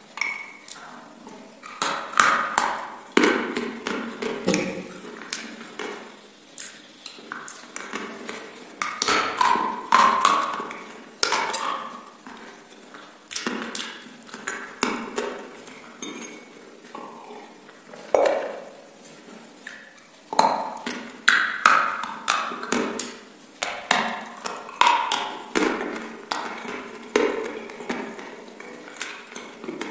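Close-miked eating sounds as someone bites and chews chicken wings: wet mouth clicks and smacks run throughout, with louder bites and chewing bursts every few seconds.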